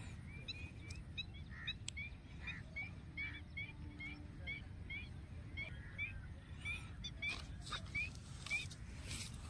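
A bird calling in a long series of short, high chirps, about two to three a second.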